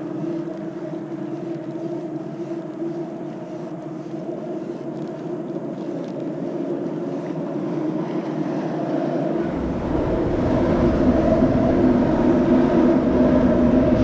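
Boat motor running steadily with an even hum. About nine seconds in, a deeper rumble joins it and the sound grows louder.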